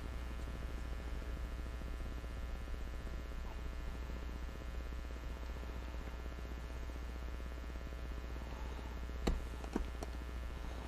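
Steady low electrical hum, with two or three light clicks near the end.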